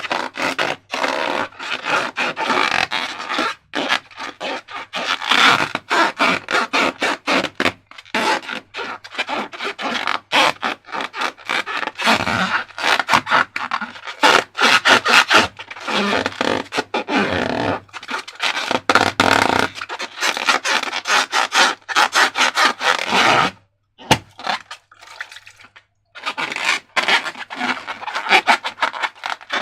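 Sticky slime being handled, squeezed and mixed: a dense run of rapid wet clicks and scraping. It stops briefly for about two seconds late on.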